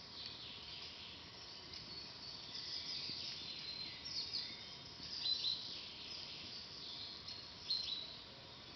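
Songbirds chirping and singing in woodland: a run of short calls and quick whistled sweeps, the loudest about five and a half and nearly eight seconds in.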